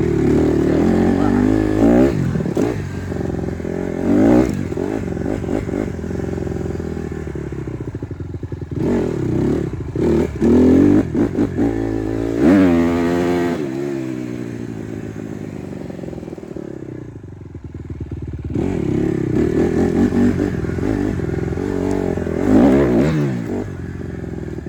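Honda CRF150R dirt bike's four-stroke single-cylinder engine being ridden, revving up and down again and again through the gears. About midway it settles to a lower, quieter run for a few seconds, then revs up again.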